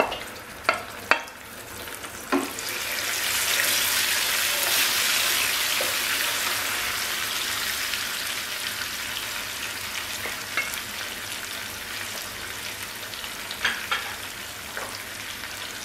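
Spice marinade paste sizzling in hot oil with whole garam masala in a frying pan, worked with a wooden spatula. A few knocks of the spatula come in the first couple of seconds. The sizzle then swells about three seconds in and slowly eases off.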